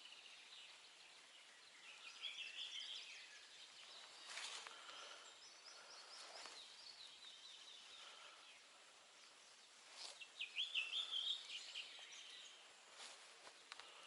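Faint outdoor ambience with a small bird singing quick warbling phrases, in two bouts about two seconds in and again about ten seconds in, and a few soft clicks.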